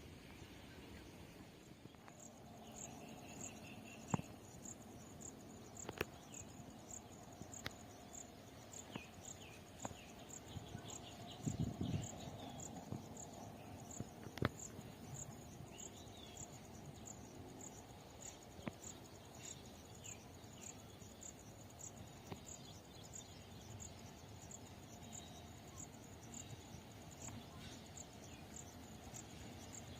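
An insect chirping steadily in a high, even pulse about twice a second, with faint bird calls and a few sharp clicks in the background.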